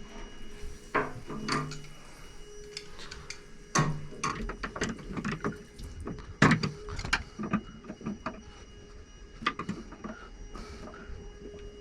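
Irregular clicks, taps and knocks of hand work with tools and hard parts, over a faint steady tone.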